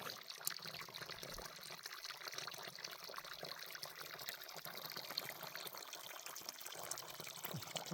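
Irrigation water pouring and trickling steadily.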